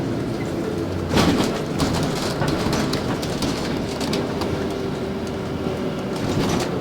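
Cabin noise inside a LiAZ 5292.65 city bus on the move: steady engine and road noise with rattling, and a sharp knock about a second in.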